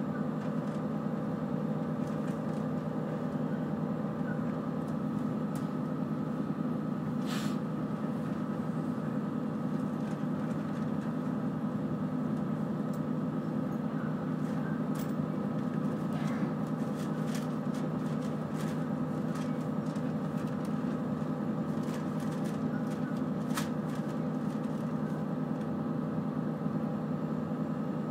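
A moving train heard from inside the carriage: a steady running rumble with a constant hum. A few sharp clicks break through now and then.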